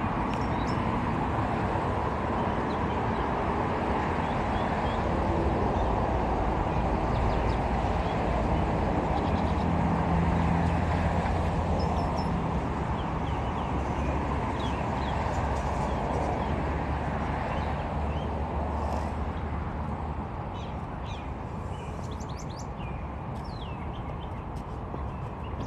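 Small birds chirping in short high calls, more often in the second half, over a steady low rumble of outdoor background noise.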